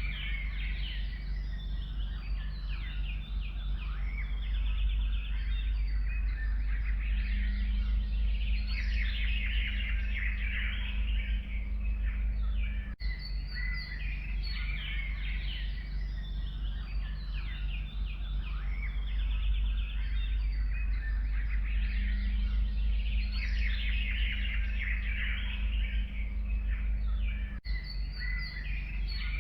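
Dawn-chorus-like forest birdsong: many songbirds chirping and trilling densely at once over a steady low rumble. The same stretch of birdsong repeats about every fifteen seconds, with a brief dip at each join.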